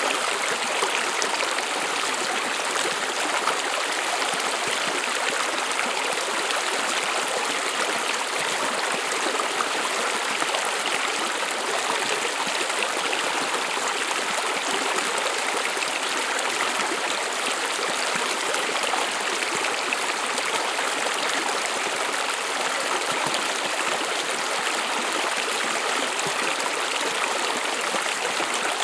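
A stream of running water, flowing in a steady, even rush with no change.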